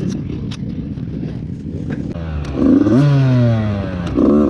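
Off-road engine running low and rough, then revved hard from about two seconds in, its pitch rising and falling in surges.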